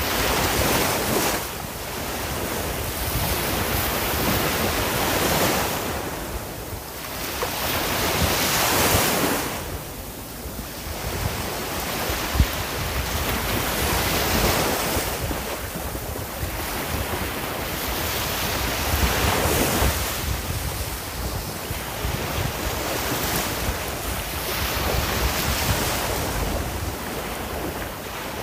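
Ocean waves breaking and washing on the shore, the surf swelling and ebbing every few seconds, with a rumble of wind on the microphone beneath.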